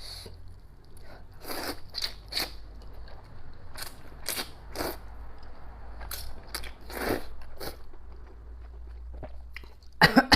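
Close-miked eating sounds of noodles with pig intestines: a string of short chewing and biting noises, several a second at times. A louder cluster comes near the end.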